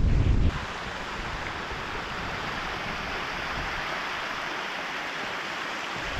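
Strong mountain wind blowing, a steady rushing hiss. For the first half second it buffets the microphone with a low rumble that cuts off abruptly.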